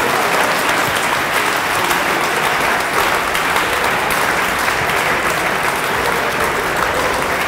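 Audience applauding and cheering steadily in a hall after a team is announced in the results.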